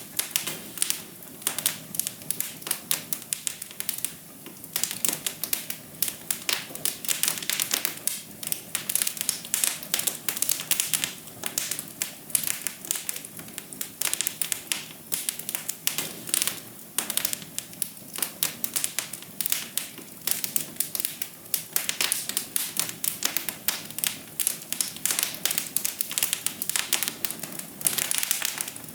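Fire in a fireplace crackling, with dense, irregular snaps and pops over a soft steady rush.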